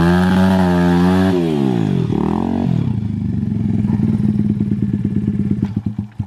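Small dirt bike engine revving high, dropping and rising again, then running lower with a rapid even beat before cutting out abruptly near the end.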